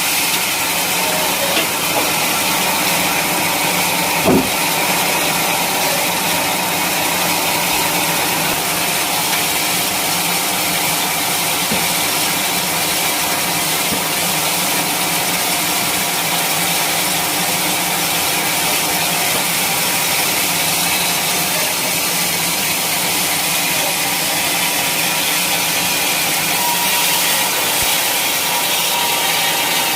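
Sawmill engine running steadily, with one sharp knock about four seconds in.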